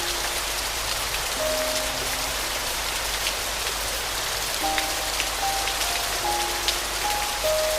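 Steady rain with scattered drop ticks, under a soft, slow piano melody of sparse single notes that grows busier in the second half.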